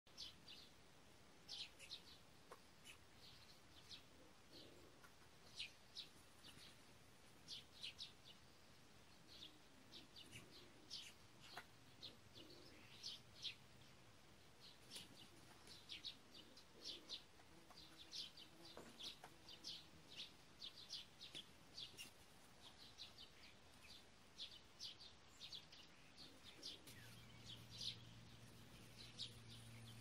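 Birds chirping faintly, many short high chirps coming every second or so. A steady low hum comes in near the end.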